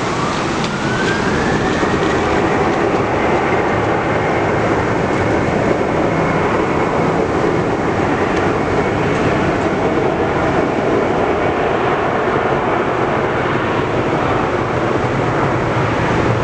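Boeing 737-800's CFM56 jet engines spooling up and running at takeoff thrust: a whine rising in pitch over the first two seconds, then holding steady over a loud continuous roar.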